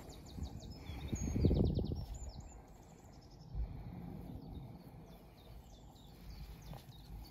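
Small birds chirping and singing in quick high notes throughout, with a short low rumble about a second in.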